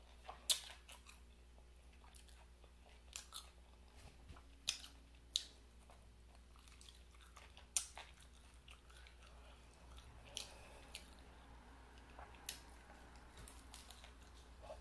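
Close-miked mouth sounds of someone eating chicken wings: quiet chewing with scattered sharp smacking clicks every second or two, and a bite into a wing near the end.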